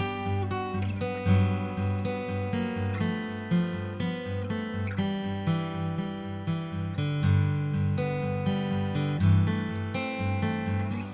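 Seagull S6 acoustic guitar, solid cedar top with wild cherry back and sides, being played: chords and notes ringing and changing throughout. The owner says it doesn't tune very well and thinks it needs a setup.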